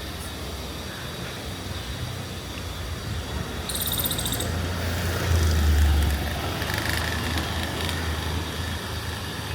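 Street ambience: a steady low traffic rumble that swells about halfway through as a vehicle passes close by. A brief high, rapidly pulsing trill sounds about four seconds in.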